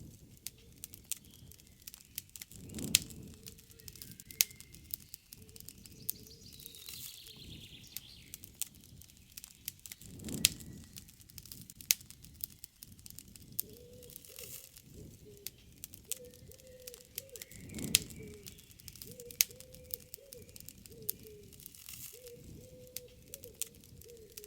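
Wood campfire crackling, with many small sharp pops and a louder snap every seven seconds or so. Birds call faintly in the background.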